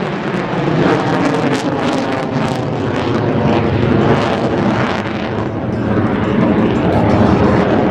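F-22 Raptor's twin Pratt & Whitney F119 turbofans running at high power, a loud, crackling jet noise. The crackle fades about two-thirds of the way through, leaving a duller sound.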